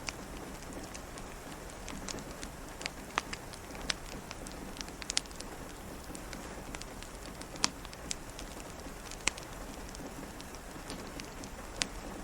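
Steady rain hiss with scattered sharp, irregular pops and crackles from a wood fire in a fireplace.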